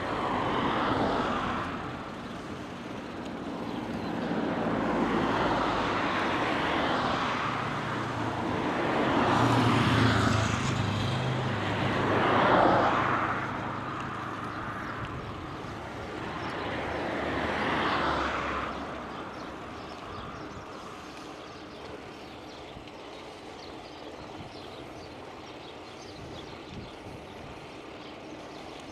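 Motor vehicles passing one after another, each a swell of engine and tyre noise that rises and fades, five in all. After about twenty seconds only a quieter steady background noise remains.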